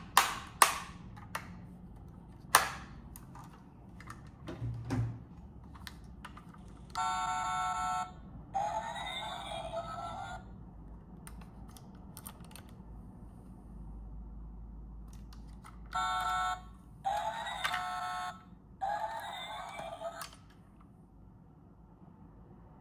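Sharp light clicks, then an electronic sound played twice: a steady buzzing tone about a second long, followed by a rising, sweeping sound.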